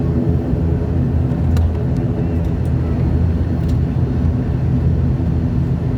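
Passenger aircraft's engines running steadily during landing, a loud, even, low hum with a few faint clicks over it.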